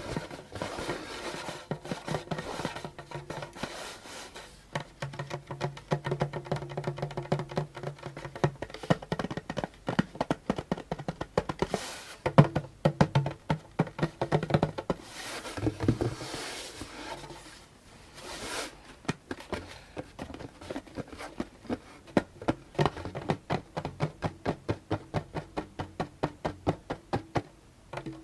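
Fingers tapping and drumming on a djembe's skin head, the head ringing with a low tone, with a few longer rubbing strokes in the middle and a run of quick, even taps at about three or four a second near the end.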